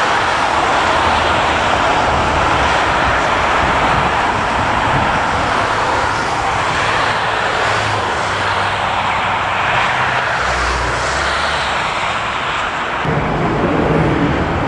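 Jet airliner's engines running: a loud, steady rushing noise, with a deeper rumble coming in near the end.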